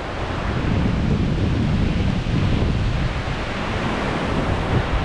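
Wind buffeting the microphone: a loud, rumbling rush that swells about a second in and stays gusty.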